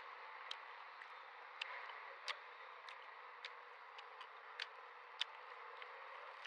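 About ten sharp, irregularly spaced clicks over a steady background hiss.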